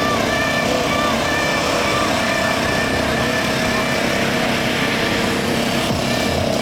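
Busy city street ambience in the rain: a steady wash of traffic and wet-street noise, with faint short tones coming and going.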